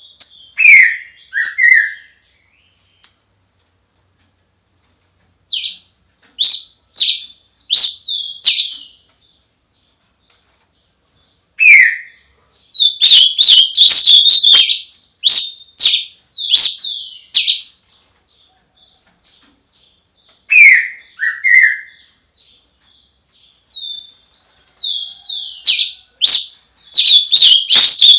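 A songbird singing loud phrases of rapid chirps and sweeping whistles, repeating similar motifs, with pauses of a few seconds between phrases.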